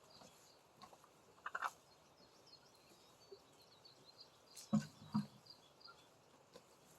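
Small birds chirping faintly in the background, with two pairs of short knocks or rustles, about one and a half seconds in and about five seconds in; the later pair is the loudest.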